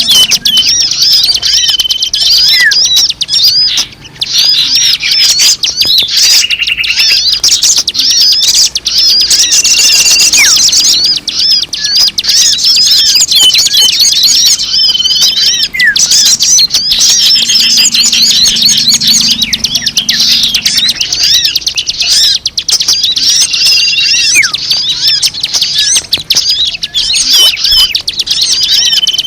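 Bird-lure recording: a loud, dense chorus of many small birds chirping and twittering without pause, with a short steady whistle recurring every few seconds.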